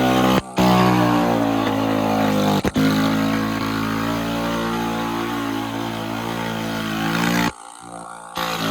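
Mini bike's small engine running and revving, its pitch drifting up and down, with abrupt edit cuts between clips and the sound dropping low for most of a second near the end.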